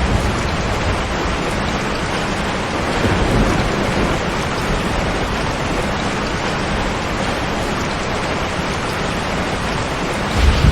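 Heavy rain falling steadily, an even dense hiss, with a low rumble that swells near the end.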